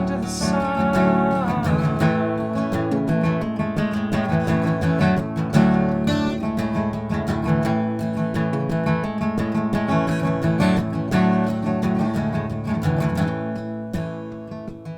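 Acoustic guitar in open G tuning with a hacksaw-blade partial capo across the middle four strings, strummed steadily back and forth between two chords.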